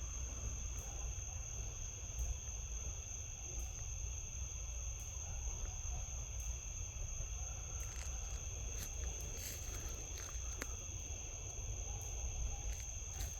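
Steady, high-pitched trilling of night insects, unbroken throughout, over a low rumble, with a few faint clicks scattered through it.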